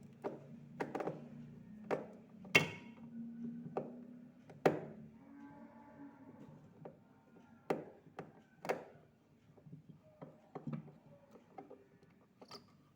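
A series of irregular knocks and clunks, about a dozen, two of them much louder, over a low steady hum that fades out around the middle.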